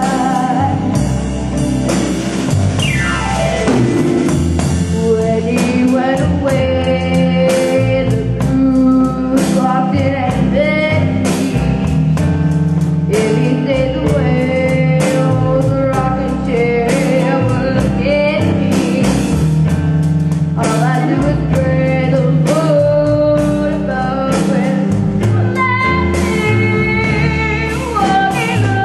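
A child's voice singing a slow jazz standard over a backing band with drums and guitar, holding and bending long notes; about three seconds in, a long falling glide.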